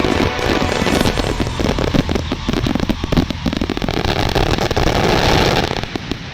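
Aerial fireworks and firecrackers going off in a dense, continuous barrage of rapid crackles and pops, dying down near the end.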